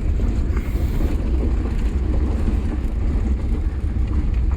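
A vehicle driving: a steady low rumble with light scattered knocks and rattles.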